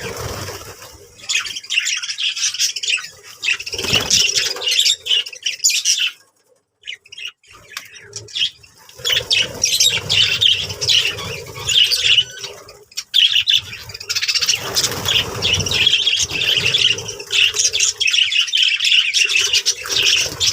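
Budgerigars chattering and warbling continuously, with squawks and chirps, pausing briefly about a third of the way in.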